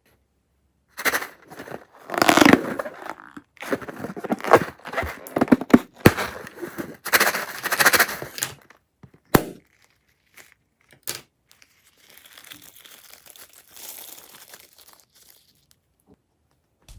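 Crunchy slime being squeezed and worked, crackling and crunching in irregular bursts with a few sharp snaps, then going softer near the end.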